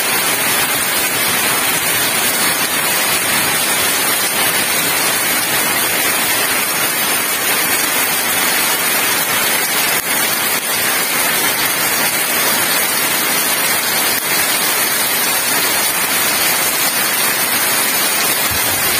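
Heavy tropical downpour: a steady hiss of rain pouring onto a flooded paved yard.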